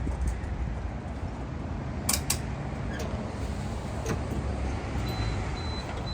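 Steady low rumble of a vehicle engine running, with a few sharp clicks about two seconds in and again around four seconds.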